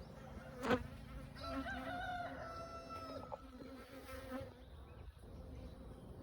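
Honeybees buzzing steadily around the hive. A sharp tap comes under a second in, and a rooster crows once for about two seconds soon after.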